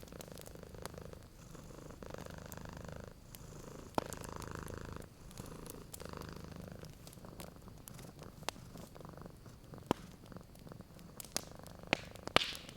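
Domestic cat purring, a low hum that swells and eases with each breath, over a wood fire crackling with scattered sharp pops, the loudest cluster of pops near the end.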